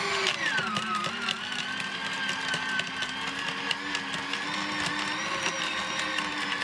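McAllister wood chipper's motor dropping sharply in pitch just after the start as a branch is fed in, then running loaded at the lower pitch with rapid cracking and snapping as the wood is chipped.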